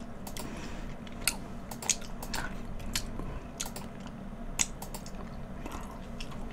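Close-miked chewing of food, with scattered sharp, wet mouth clicks at irregular intervals.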